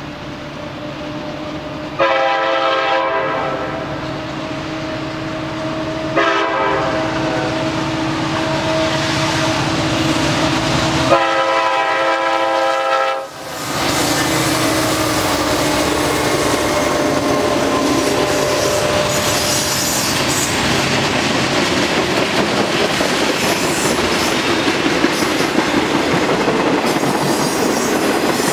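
Norfolk Southern freight train approaching and passing close by. The lead SD60E's horn blows three times, the third blast the longest and loudest. Then the diesel locomotives go by, and a string of freight cars rolls past with clickety-clack of wheels over the rail joints and some wheel squeal.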